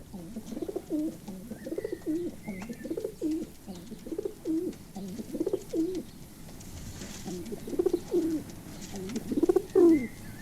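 Male feral pigeon cooing to the hen in its display: a run of low coos, one every second or less, growing louder near the end.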